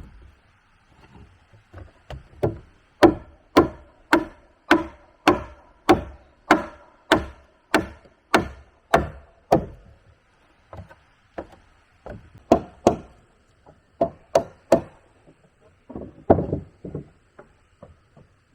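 A hand tool striking timber: a steady run of about a dozen blows, a little under two a second, then after a pause a few more scattered strikes, including a quick pair and a short cluster near the end.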